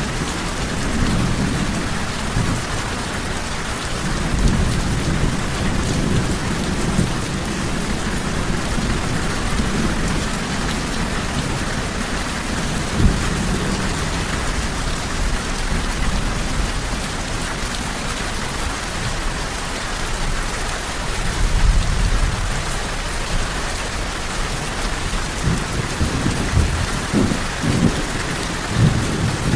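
Steady, heavy rainfall with low rumbles of distant thunder swelling and fading several times.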